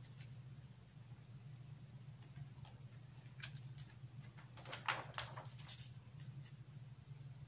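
Pages of a large glossy magazine being handled and turned: a few soft paper rustles and light taps, the busiest about five seconds in, over a faint steady low hum.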